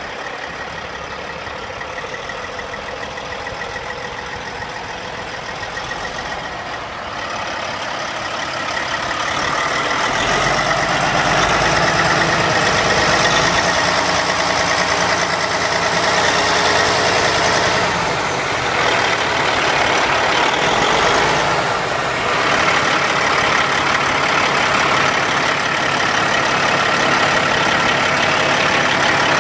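Caterpillar C15 diesel engine of a Sterling dump truck idling steadily, getting louder about eight to ten seconds in.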